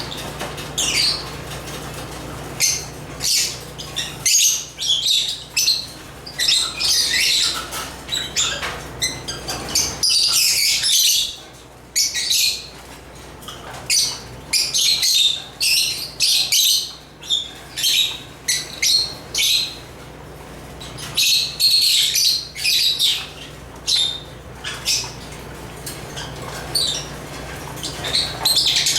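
Lovebirds (Agapornis) chirping and squawking in quick, high-pitched bursts that come in clusters throughout, with a steady faint low hum underneath.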